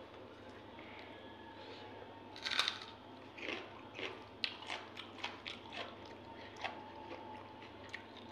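Close mouth sounds of a person eating rice with chicken pota kaleji (gizzard and liver curry): a louder crunchy bite about two and a half seconds in, then wet chewing and smacking at about two to three a second.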